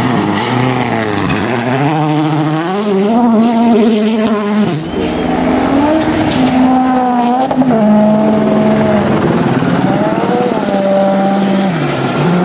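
Rally car engine under hard acceleration on a stage, its note climbing and then dropping sharply several times as it shifts up through the gears.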